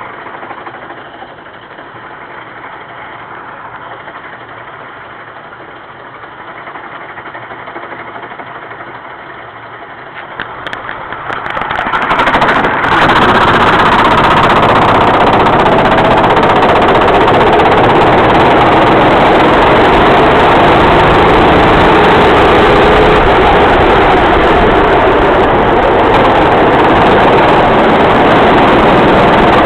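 Racing kart engine running steadily at low revs, then about twelve seconds in it gets much louder and stays loud and distorted at high revs as the kart drives off. A few clicks come just before the rise.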